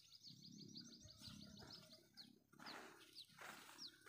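Faint birdsong: a quick run of thin, high chirps over the first two seconds, then single high down-slurred notes about every half second. Soft rustling now and then underneath.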